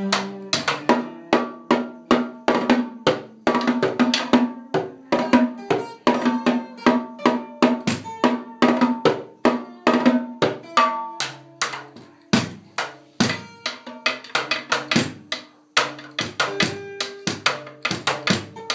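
Rhythmic percussion music: quick, evenly paced drum strikes, several a second, over held pitched notes.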